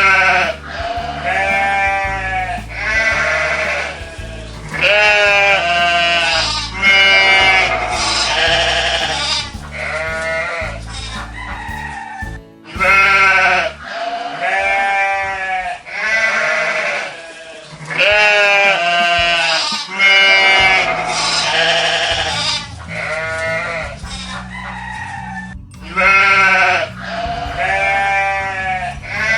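Livestock bleating: a long run of loud calls, each about a second long with a quavering pitch, with short gaps between them, over background music.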